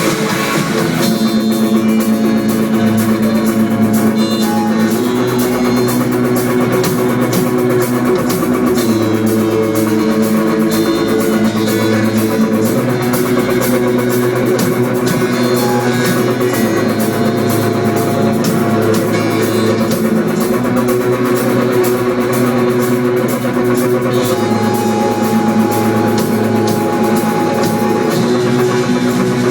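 Live rock band playing loudly: electric guitars, bass guitar and a drum kit keeping a steady beat.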